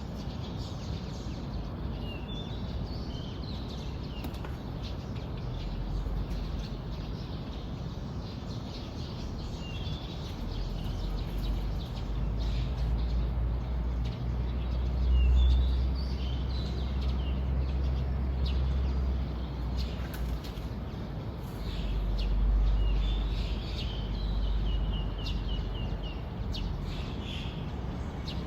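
Wild birds chirping and calling in the open, with short scattered high calls and a quick run of repeated notes near the end. Underneath, a low rumble grows and swells twice, around the middle and about three quarters through.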